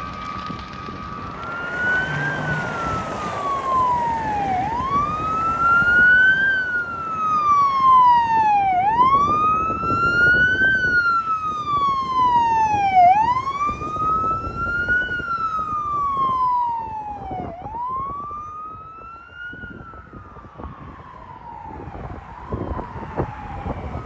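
Fire engine siren wailing, its pitch rising and falling slowly about every four seconds over the rumble of the truck, fading and breaking up near the end.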